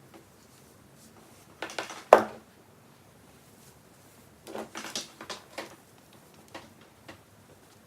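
Handling noise: a quick cluster of clicks ending in one sharp knock about two seconds in, then another run of clicks and taps around five seconds.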